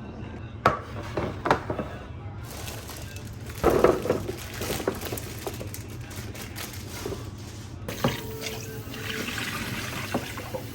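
Water running, with a few knocks and clatters on top, the loudest near four seconds in.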